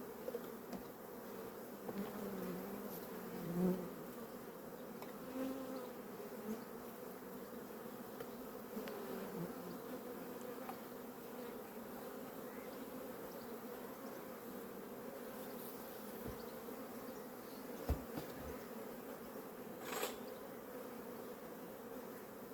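Steady hum of a honeybee colony, many bees buzzing together, with two brief knocks near the end.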